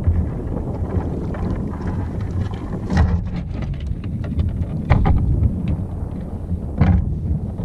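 Wind buffeting the microphone with a steady low rumble, and three short sharp sounds about three, five and seven seconds in.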